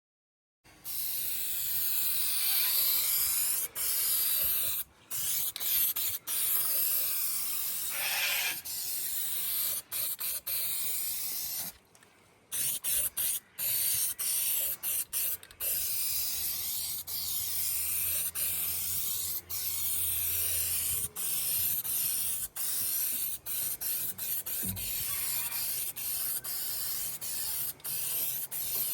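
Paint being sprayed: a high hiss in long bursts, broken by many short pauses.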